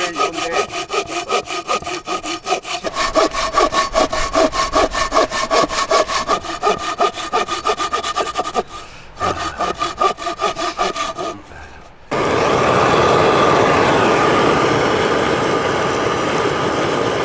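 Hand saw cutting wood in quick, even back-and-forth strokes, about four a second, with a couple of short breaks. About twelve seconds in it stops abruptly and a steady rushing noise takes over.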